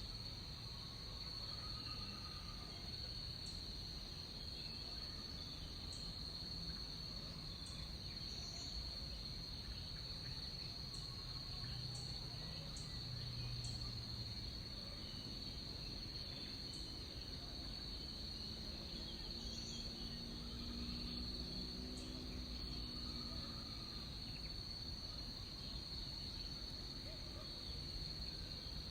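A forest insect chorus: a steady, high-pitched trilling that never lets up, with a few faint, brief calls above and below it.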